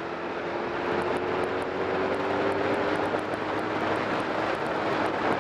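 BMW K1200R inline-four engine running while the motorcycle is ridden, its pitch rising a little over the first few seconds and then holding steady, under a steady rush of wind.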